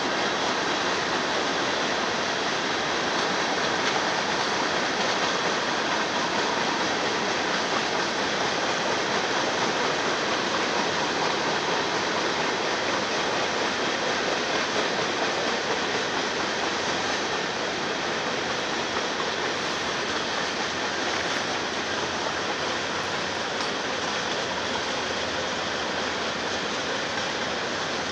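Freight cars of a Union Pacific manifest train rolling past, a steady rush of wheel and rail noise that eases slightly toward the end.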